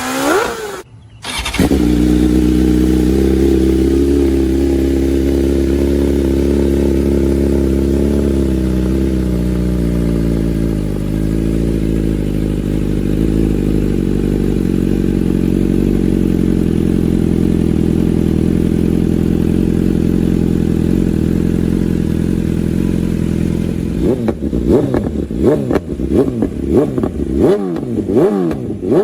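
BMW S1000 superbike's inline-four engine and exhaust. It revs up briefly, then runs at a steady engine speed for about twenty seconds. From about 24 seconds in it is blipped up and down quickly over and over.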